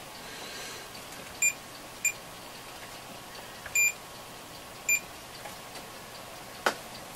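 Digital multimeter beeping: four short beeps of one high pitch, the third a little longer, then a sharp click near the end.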